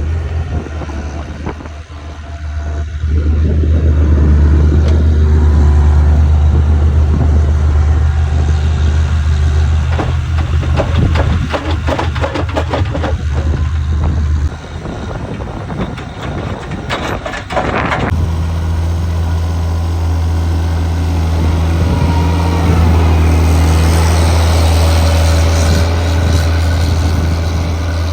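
Heavy engine running steadily, with a low drone. About two-thirds of the way through there are a few knocks, then the sound changes abruptly to another steady engine drone.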